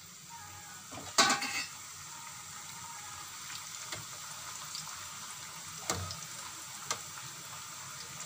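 Maida-dough paratha frying in hot oil with a steady sizzle. A utensil clatters against the pan about a second in, loudest of all, and knocks on it twice more around six and seven seconds.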